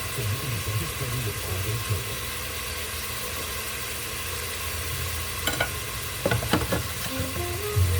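Chicken cutlets frying in a pan with a steady sizzle, with a few sharp clinks around five and a half to six and a half seconds in.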